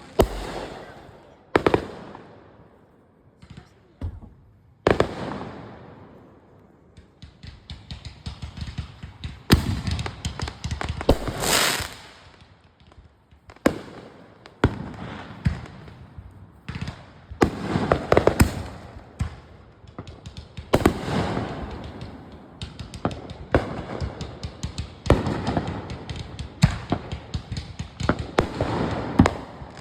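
Consumer fireworks going off one after another. A few separate sharp bangs come first, then from about a quarter of the way in dense crackling runs with repeated loud reports.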